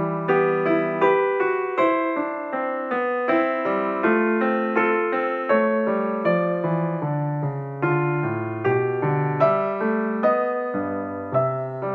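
Background piano music: a steady, gentle run of notes.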